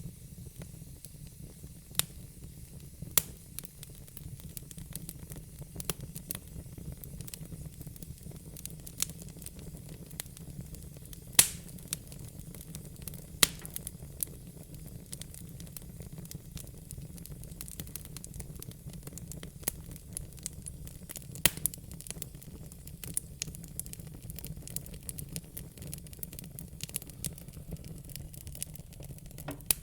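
Fire crackling: irregular small snaps and pops, with a handful of louder pops, over a steady low rumble.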